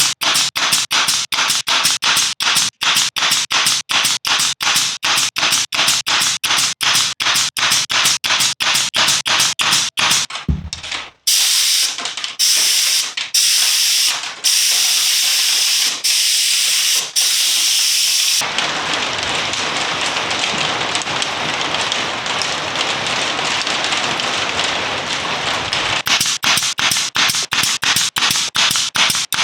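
Spray gun applying contact adhesive. It fires in fast, even pulses of about four a second, then in several longer bursts of hiss, then as one steady hiss lasting several seconds, and it goes back to quick pulses near the end.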